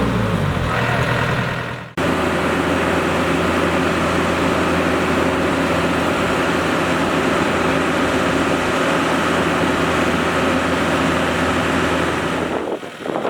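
Heavy farm diesel engine running, its pitch falling in the first second, then a sudden break at about two seconds before it runs on steadily; near the end the engine fades into a choppier, gusty sound.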